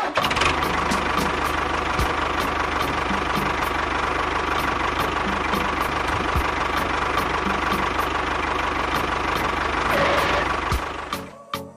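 Small motor of a miniature toy tractor running steadily as it drives along pulling a loaded trolley, fading out near the end as it stops.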